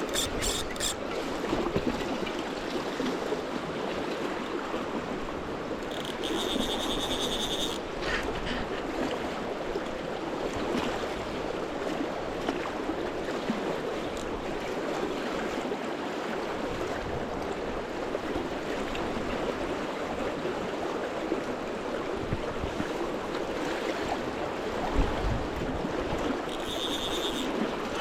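Fast river water rushing steadily. Twice, about six seconds in and near the end, a brief high-pitched tone sounds over it for about a second.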